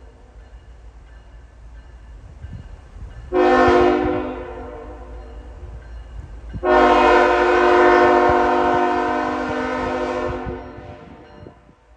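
Freight locomotive's multi-chime air horn: a short blast about three seconds in, then a long blast of about four seconds, over the low rumble of the train on the rails.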